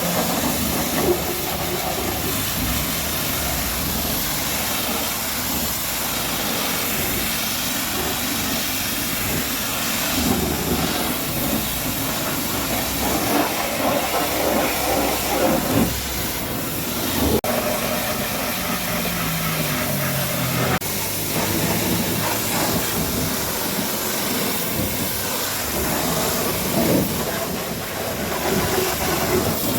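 Pressure washer spraying water in a steady hiss, with two brief knocks.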